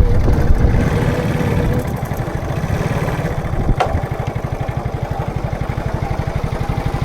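Motorcycle engine idling with a fast, even putter, a little louder for the first two seconds before it settles; a single sharp click about four seconds in.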